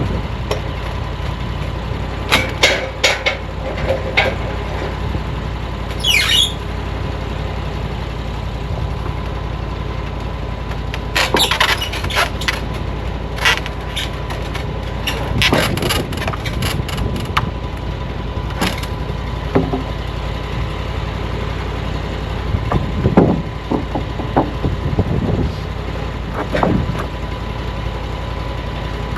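An engine idling steadily, with scattered sharp clicks and knocks over it and a brief high squeak that falls in pitch about six seconds in.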